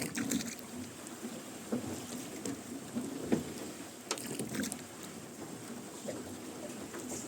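Rowboat being rowed: oars dip and splash in the river and the oarlocks creak, stroke after stroke at a leisurely pace.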